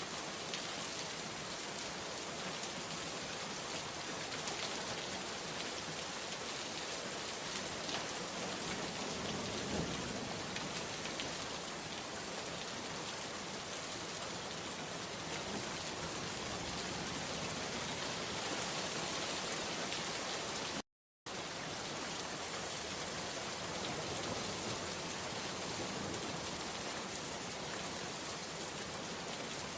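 Steady rain falling, an even hiss of drops. The sound cuts out to silence for a split second about two-thirds of the way through.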